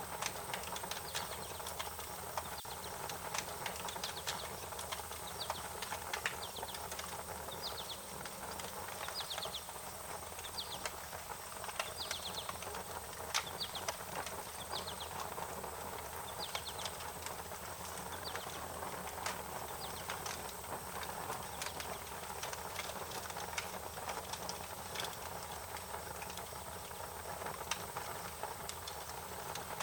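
Wood fire crackling, with scattered sharp pops over a steady hiss. Short, high chirping notes repeat about once a second through the first two-thirds.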